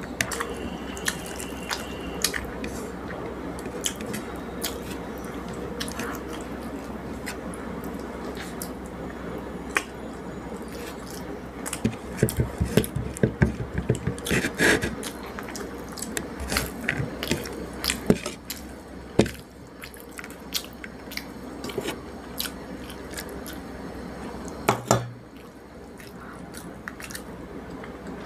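Close-miked eating by hand: wet mixing of rice and curry, chewing and small mouth clicks and smacks, with a busier patch of clicks and knocks about halfway through, over a steady background hum.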